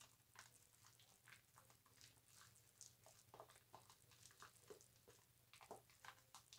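Faint, irregular wet crackling and squishing of bar soap being lathered, with soap bubbles popping.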